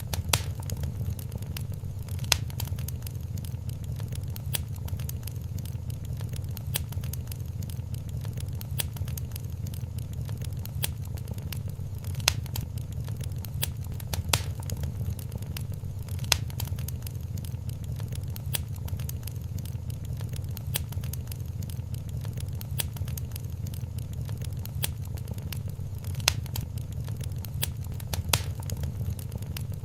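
Wood fire in a fireplace crackling steadily over a low rumble of flames, with many small snaps and a louder pop every couple of seconds.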